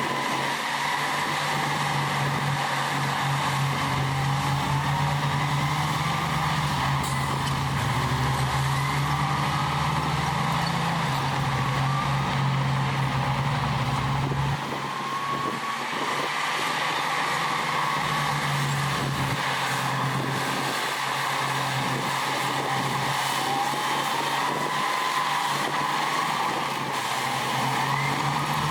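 Heavy diesel earthmoving machinery running steadily, with a faint wavering whine above the engine note. The deep engine hum drops about halfway through and comes back near the end, as the machine changes load.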